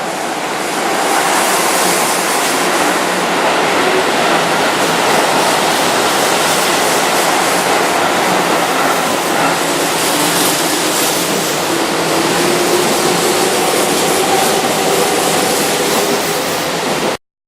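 Keihan 2600-series electric train running along the track: a loud, steady noise of wheels and running gear with faint tones above it. The sound cuts off abruptly near the end.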